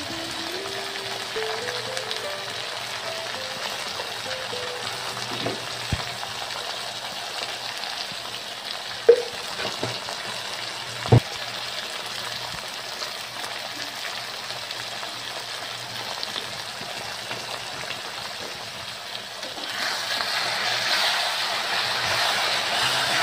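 Tomato-onion masala frying in a steel kadai with a steady sizzle. Two sharp knocks of the spoon against the pan come around nine and eleven seconds in, and the sizzle grows louder near the end as the masala is stirred.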